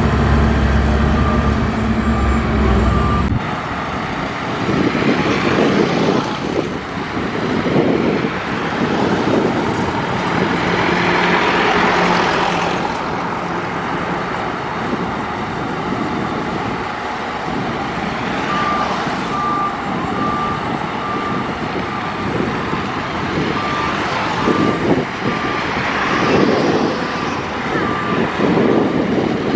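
Earthmoving machinery at work: heavy diesel engines running with repeated swells of noise as they work. A steady low engine hum in the first few seconds stops abruptly. A reversing alarm beeps regularly near the start and again through the last third.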